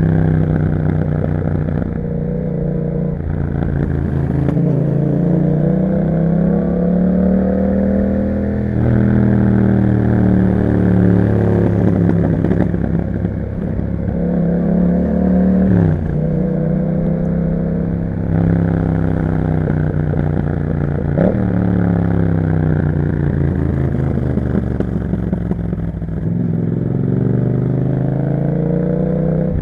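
A 2021 Yamaha MT-07's parallel-twin engine through an Akrapovic exhaust, under way: its note climbs and falls repeatedly as the rider works the throttle and gears, with a sudden dip and pick-up about halfway through and a short blip a few seconds later.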